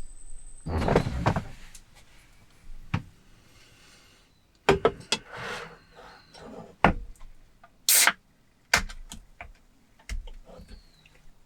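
Handling sounds in a small space: a longer noisy scrape or slide about a second in, then a scatter of sharp clicks and knocks, with a short bright burst of noise near eight seconds.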